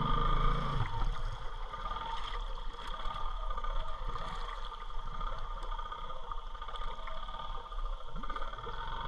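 ATV (four-wheeler) engine running steadily as the quad is ridden, a little louder in the first second.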